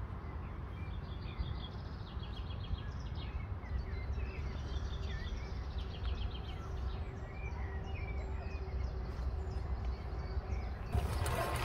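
Songbirds singing and calling in short chirps and quick repeated trills, over a steady low rumble. A louder noise cuts in abruptly just before the end.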